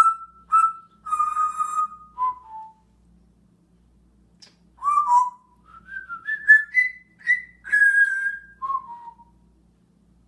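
A pet talking bird whistling a string of short notes; after a pause of about two seconds comes a run of notes that climbs in pitch and then drops at the end.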